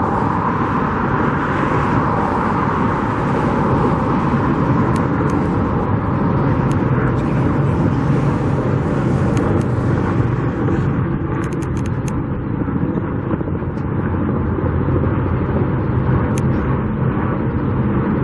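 Steady rumble of motor vehicle engines and traffic, with a few faint clicks around the middle.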